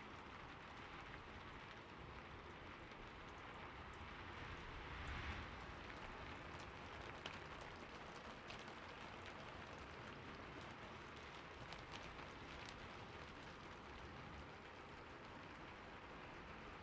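Steady rain falling on a roof, a faint even hiss with a few sharper drip ticks and a brief swell about five seconds in.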